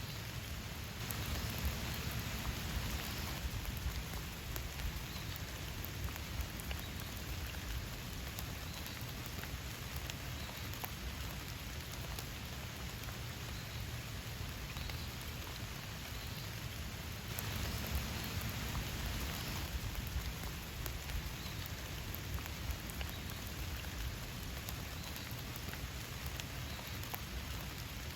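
Steady rain with many individual drops striking a surface, growing a little heavier twice, about a second in and again past the middle.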